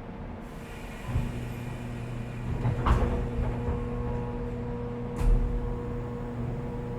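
Cabin sound of a 415-series electric multiple unit's motor car: a steady electrical hum from the traction equipment comes on about a second in. Two heavy clunks follow, a little over two seconds apart.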